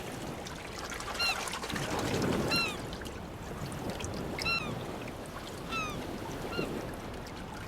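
Gently rolling sea water washing, with about five short, high calls a second or two apart, each a quick note falling in pitch.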